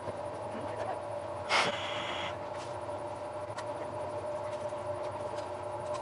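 Steady mechanical hum of a train standing at a station, with a short hiss about a second and a half in.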